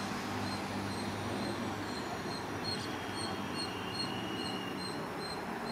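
Express train running away into the distance, its low rumble fading after the pass. Over it, a short high chirp repeats steadily about two and a half times a second.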